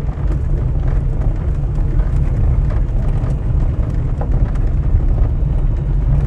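Vehicle driving on a gravel road: a steady low rumble of engine and tyres, with small stones ticking now and then.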